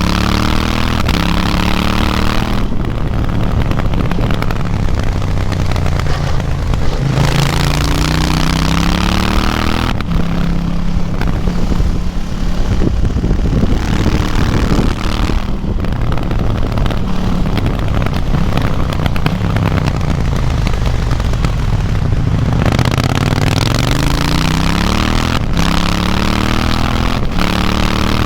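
KTM 790 Duke's parallel-twin engine, A2-restricted to 47.5 hp, heard onboard under hard riding: the pitch rises repeatedly as it pulls up through the revs and gears, easing off through a calmer middle stretch before climbing again near the end, with wind rushing over the bike.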